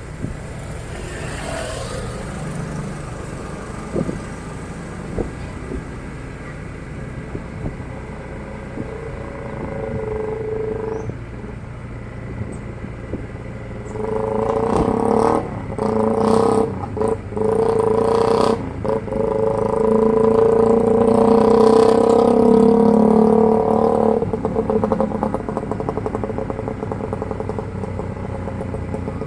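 Motorcycle engine running while being ridden. It pulls harder and louder for about ten seconds in the middle, with a few brief dips as the throttle is eased, then settles back to a steadier run.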